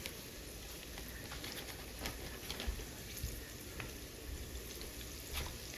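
Floured chicken pieces deep-frying in a pan of hot grease: a steady sizzle with many scattered sharp pops and crackles.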